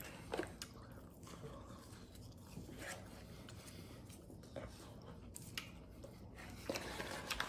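A man chewing and biting French fries, with soft mouth sounds. A few short crackles come from the paper fry sleeve in his hand, more of them near the end.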